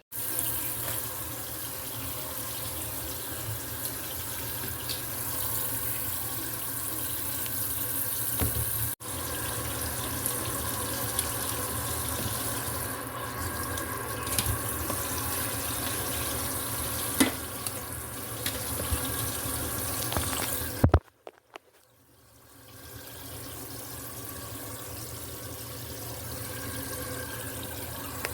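Kitchen tap running into a sink. The water cuts off with a couple of knocks about three-quarters of the way through, then runs again more softly.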